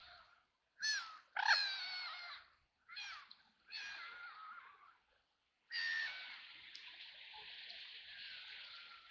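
Ducks quacking: four or five short, harsh calls in the first five seconds with brief silences between them, then one long drawn-out call near the end.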